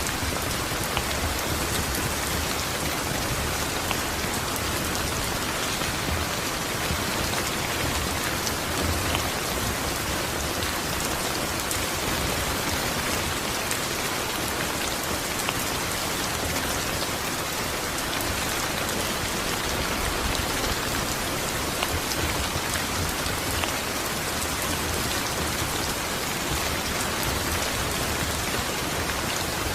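Steady rain falling: an even hiss flecked with the small ticks of individual drops, unchanging throughout.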